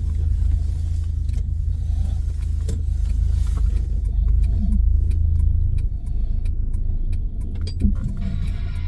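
Low, steady vehicle rumble with scattered short clicks and knocks; the rumble eases about six seconds in.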